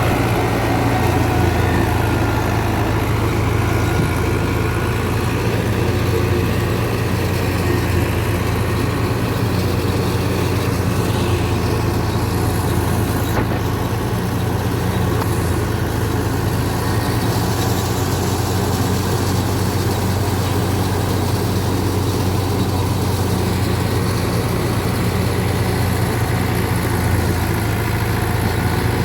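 Fiat 640 tractor's diesel engine running at a steady speed while driving a wheat thresher.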